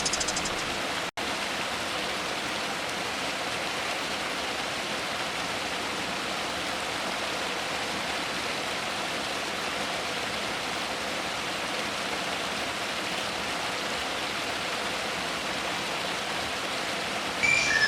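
Steady, even hiss like rushing water, with a momentary dropout about a second in; near the end a songbird starts chirping.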